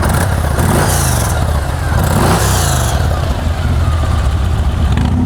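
2014 Yamaha Stratoliner S's 1,854 cc V-twin idling steadily. Over it, an engine note rises and falls for a couple of seconds about a second in.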